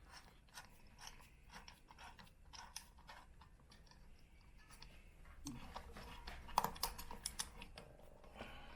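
Faint scattered clicks and taps of small metal parts and tools being handled, as the clutch springs and screws are fitted to the pressure plate. The clicks are busier from about halfway through.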